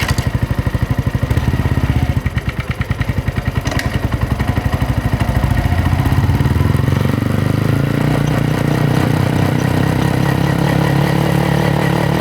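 Yamaha MT-125's single-cylinder four-stroke engine and exhaust: a loping idle with distinct exhaust pulses. About six seconds in, the revs rise and it runs on steadily at higher engine speed.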